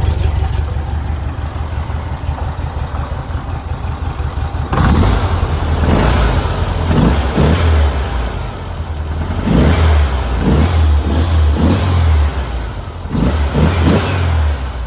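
Porsche 356C's air-cooled flat-four engine, running after a cold start: it idles steadily, then from about five seconds in is revved again and again in short throttle blips that rise and fall.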